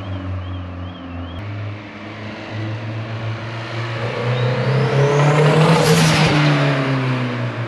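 Audi S3's turbocharged four-cylinder engine running steadily, then revving up to a loud peak about six seconds in and easing off with falling pitch as the car accelerates and drives by.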